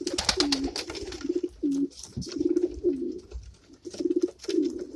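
Several racing homer pigeons cooing, one throaty pulsing coo after another, overlapping, with sharp clicks and rustles from the birds, loudest near the start.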